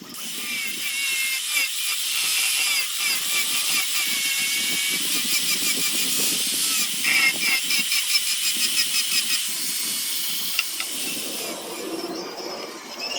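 Handheld power carving tool working wood: a steady high hiss and whine, with a run of rapid pulses in the middle.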